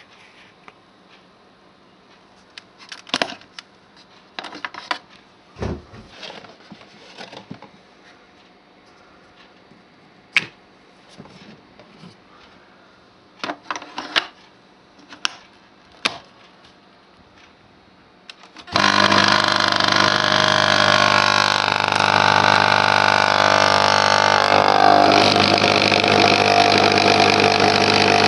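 A few scattered clicks and knocks, then, about two-thirds of the way in, the pump of a Krups Dolce Gusto Piccolo capsule coffee machine starts suddenly and runs loud and steady as it brews a capsule.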